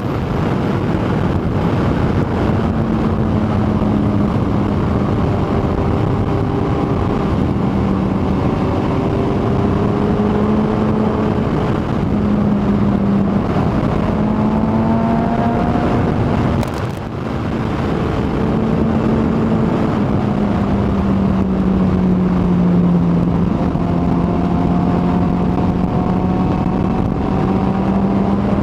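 Kawasaki ZX-14R's inline-four engine running at a steady road speed with wind rush, its pitch drifting gently up and down. There is a brief dip in the sound about two-thirds of the way through.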